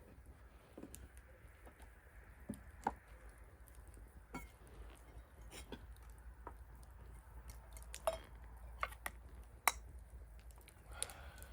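Scattered small clinks and knocks of a glass, bottle and tableware being handled, a few sharper ones near the middle and toward the end.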